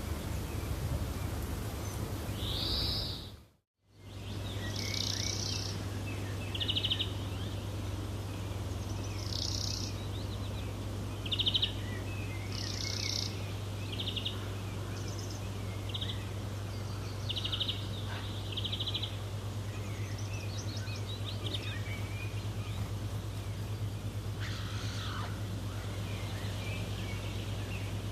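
Wild birds calling: a series of short, high chirps and buzzy trills spaced a second or two apart over a steady low hum. The sound drops to silence for a moment about four seconds in, then resumes.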